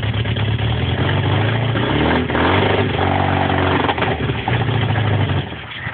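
Freshly rebuilt MGB 1.8-litre B-series four-cylinder engine running on its first start after the rebuild, revving up in the middle, then stopping about five and a half seconds in. The ignition timing is not yet quite right, by the owner's remark.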